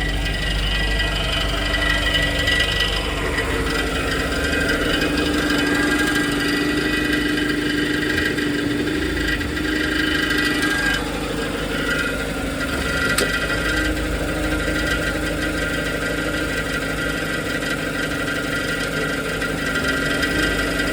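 BMW E87 116i four-cylinder petrol engine idling, heard from beneath the car, with a steady metallic rattle ('karakara') in the running sound, an abnormal noise whose cause a garage inspection could not find.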